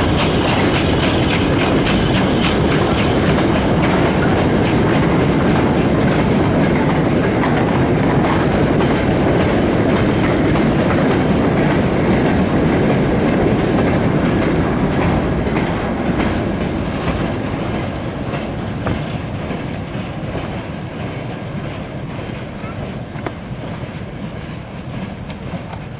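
A steam-hauled goods train of preserved wagons rolling past, the wheels clacking steadily over the rail joints. The sound fades gradually over the second half as the train draws away.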